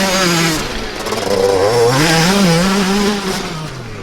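Dirt bike engine revving, its pitch rising and falling unevenly with the throttle; it climbs again about a second and a half in and eases off near the end.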